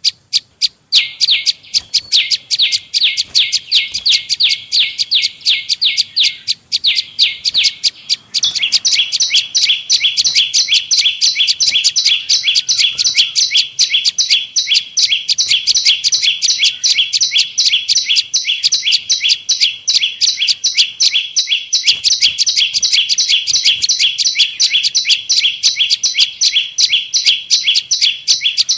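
Prenjak lumut lure call: a fast, unbroken series of sharp chirps, many per second, pausing briefly about a second in and again about eight seconds in.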